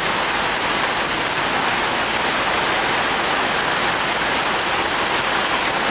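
Heavy rain pouring steadily on a garden and its foliage: a dense, even hiss that holds at one level.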